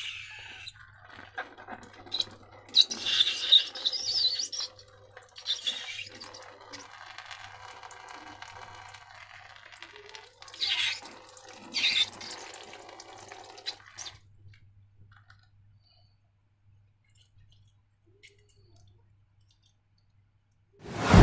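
Slime being squished and worked by hand, with irregular wet squelching and rubbing and a few louder squelches, stopping about two-thirds of the way through. A loud sudden sound follows right at the end.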